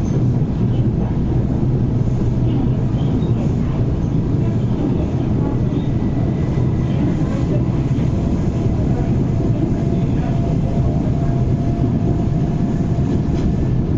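Running noise of a Metro-Cammell MLR electric train heard from inside the carriage at speed: a steady low rumble of wheels on the track with faint clicks, and a faint steady whine through the middle of the stretch.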